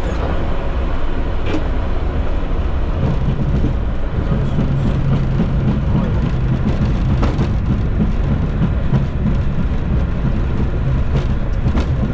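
Boeing 737 MAX flight-deck noise on the ground after landing: a steady low rumble from the idling engines and the rolling airframe. A low hum joins about three seconds in, with a few light clicks.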